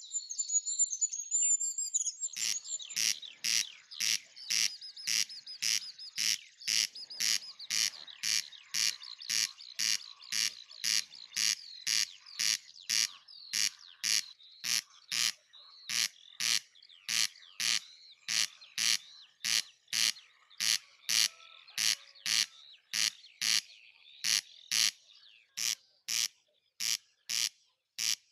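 Small birds chirping and twittering. About two seconds in, a loud, even pulse starts repeating a little under twice a second and keeps going over the birdsong.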